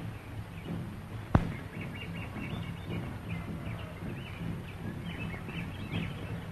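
Birds chirping in short repeated calls over the steady hum and hiss of an old film soundtrack, with one sharp click just over a second in.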